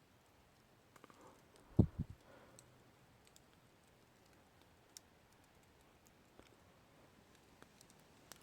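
Campfire crackling: scattered sharp snaps and pops of burning wood. About two seconds in come two dull low thumps close together.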